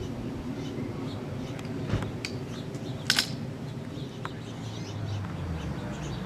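Low steady outdoor rumble with faint bird chirps scattered throughout. A sharp click comes about two seconds in, and a louder double click follows a second later.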